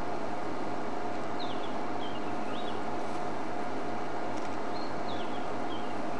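A small songbird, a white-browed scrub robin, singing short high rising phrases in little groups of two or three. Under it runs a steady hiss with a faint hum.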